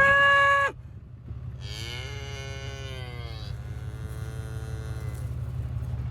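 Cattle mooing: a loud moo that ends under a second in, then a second long moo and a fainter third, over a steady low rumble.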